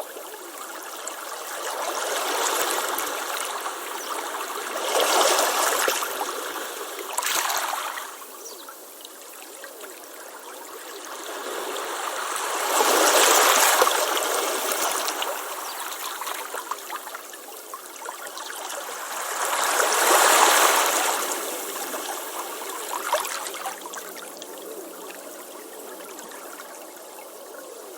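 Ocean waves breaking and washing up a beach, the surf swelling and falling away every several seconds, with the biggest surges about 13 and 20 seconds in.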